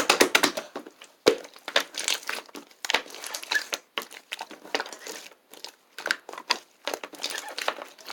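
Clear slime being squished and pressed by hand, making many quick, irregular clicks and pops as air pockets burst.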